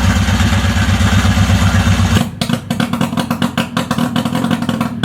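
Subaru R-2's 360cc two-stroke twin running just after its first start in 40 years, firing fast and even. About two seconds in its note turns rougher and more uneven, with more clatter. The owner finds it running surprisingly well.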